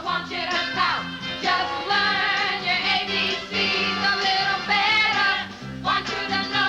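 A song with singing voices over a walking bass line, part of a musical number.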